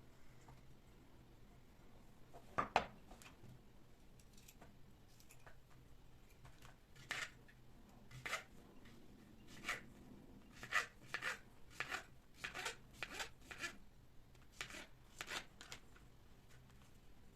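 An irregular run of short, sharp clicks and taps from objects being handled. A louder double click comes near the start, then about a dozen more follow in the second half, some a quarter-second apart.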